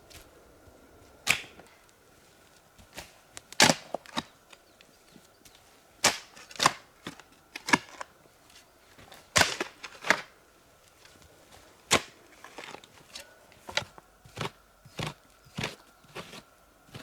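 A series of irregular sharp knocks and taps, some much louder than others, roughly one or two a second.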